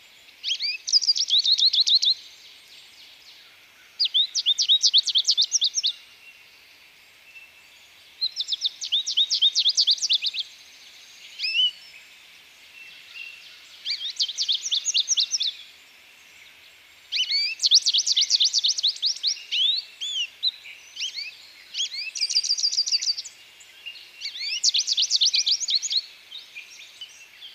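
A songbird singing: short phrases of fast, high repeated notes, each lasting one to two seconds, coming about every three to four seconds.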